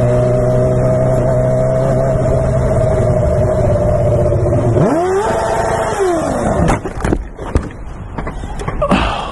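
Motorcycle engine held at steady high revs, then revved up sharply and let fall back over a second or so. A few sharp knocks follow near the end.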